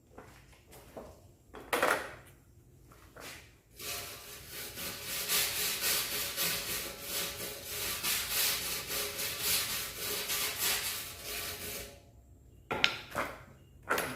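Rapid back-and-forth scraping on the metal of the tank for about eight seconds, starting about four seconds in. A few knocks and clatters come before it and near the end.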